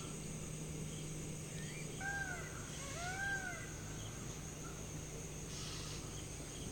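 Evening riverside ambience: insects keep up a steady high-pitched drone, and a bird gives two short arched calls about two seconds in. A low steady hum runs underneath.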